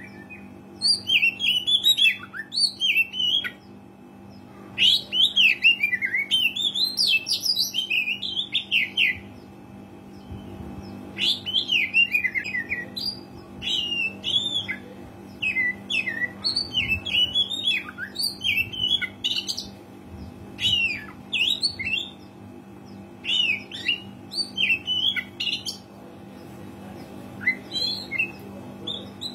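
Oriental magpie-robin in full song, giving bursts of rapid, varied whistled and scratchy phrases separated by short pauses. A faint steady hum runs underneath.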